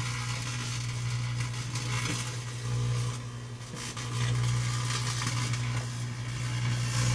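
Microwave oven running: a steady low hum with irregular crackling over it, cutting off right at the end, with something burning inside the oven.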